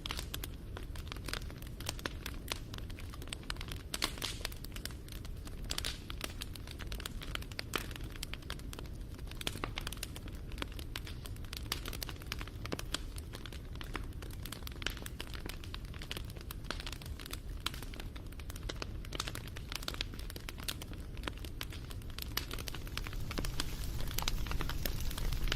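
Wood fire crackling: a dense, irregular run of sharp pops and snaps over a steady low rumble of burning.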